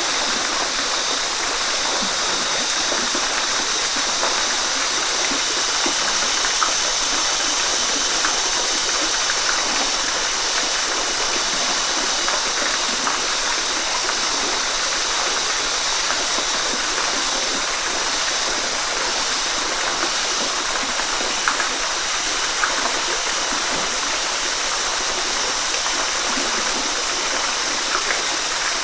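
Waterfall: falling water making a steady, even rush, with small splashes now and then.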